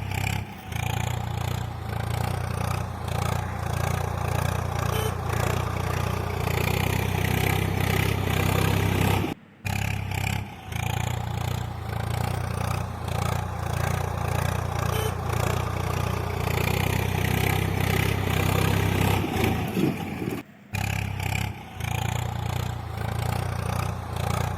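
A small motor running steadily with some clatter, cutting out briefly twice.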